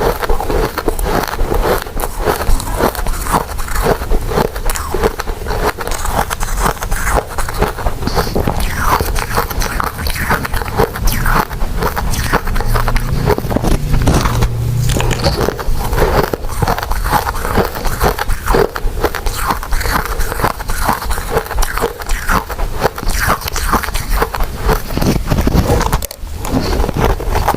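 A person chewing soft, sticky glutinous rice desserts close to the microphone: a continuous run of wet, sticky mouth clicks and smacks, with a brief pause near the end.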